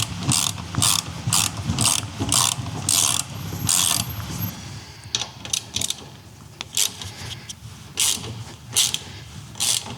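Ratchet wrench tightening crash-bar mounting bolts: quick rasping ratchet strokes about twice a second, slowing to a few spaced strokes in the second half as the bolts come tight.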